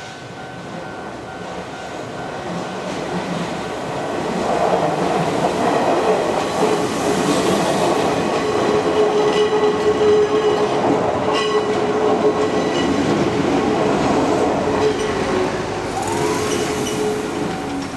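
Izuhakone Railway Daiyuzan Line electric train passing through a level crossing. It grows louder over the first few seconds and runs past for about twelve seconds with a steady high tone, then fades near the end.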